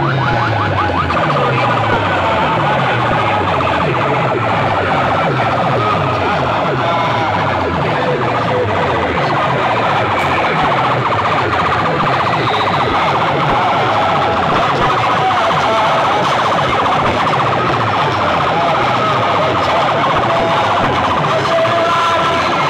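Loud DJ sound-box speaker rig blasting a siren-like electronic effect over falling bass sweeps that repeat about once a second.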